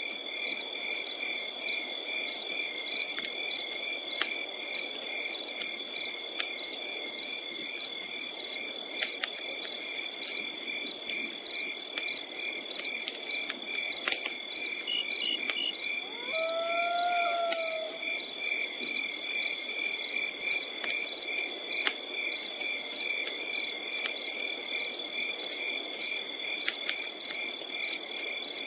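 Crickets chirping in a steady, rapid pulse over a constant high insect whine, with scattered sharp crackles and pops of a campfire. About halfway through, a single short, arched low call cuts in briefly.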